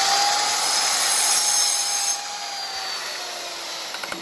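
A power tool running at speed, with a hissing cutting noise over a high whine. About two seconds in it gets quieter and the whine slowly falls as the motor winds down.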